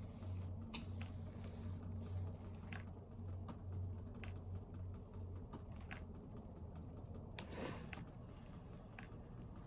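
Quiet room sound: scattered light clicks and taps over a low steady hum, with a brief rustle about seven and a half seconds in, as the hum fades out.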